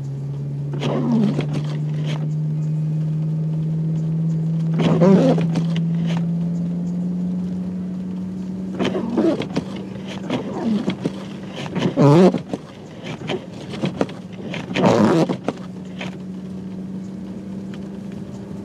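A Honda Civic Si's four-cylinder engine heard from inside the car. Its hum climbs slowly in pitch over the first several seconds as the car gathers speed, then holds steady. Several short, louder sounds with a bending pitch break in at irregular moments over the engine.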